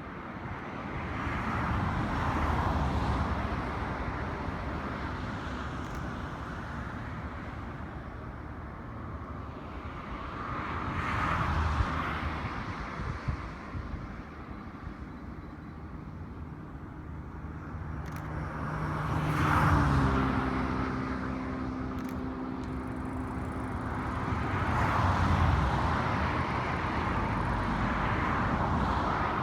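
Vehicles passing one after another, each pass rising and fading; about twenty seconds in, one passes with an engine hum that drops in pitch as it goes by.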